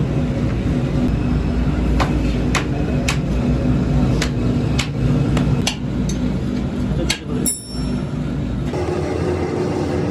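Irregular sharp hammer strikes, about one or two a second, over a steady low machinery rumble in a foundry workshop. Near the end comes one ringing metal clang, then the background changes abruptly.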